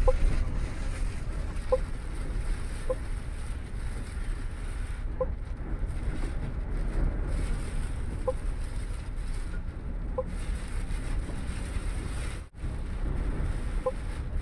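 Steady low engine and road rumble inside a MAN double-decker bus's cabin in a windstorm, with short squeaks every second or few seconds. The sound drops out for a split second near the end.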